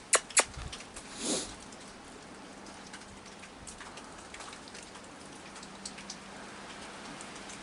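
Steady rain with scattered drip ticks, and a few sharp clicks in the first half second followed by a brief swish. A faint steady low hum runs underneath.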